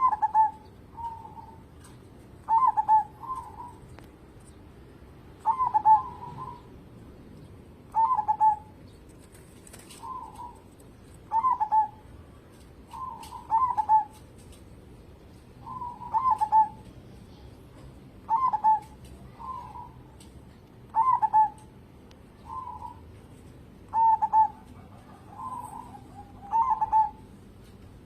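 Zebra dove (perkutut) cooing. Short phrases of quick clipped coos come every couple of seconds, each opening with a brief higher note.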